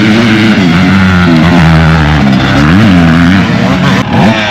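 Off-road racing vehicle engine running loud and close, its pitch dipping and rising several times as the throttle is worked, with a quick rev up and back down about three seconds in.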